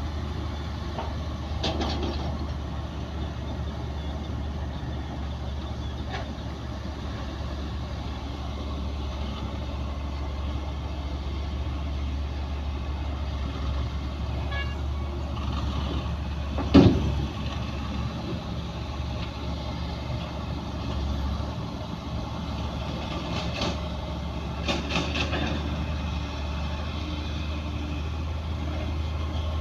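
Heavy diesel earthmoving machinery running steadily with a low rumble, with a few scattered knocks and one loud, sharp bang about seventeen seconds in.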